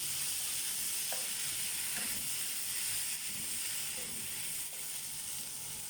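Sausage and onion masala sizzling in a frying pan, a steady hiss, with a few light clicks of a utensil against the pan.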